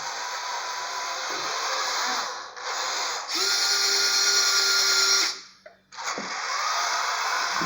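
Small electric motors of radio-controlled model vehicles whining as they drive. The whine is loudest and steadiest for about two seconds in the middle, cuts off briefly, then resumes.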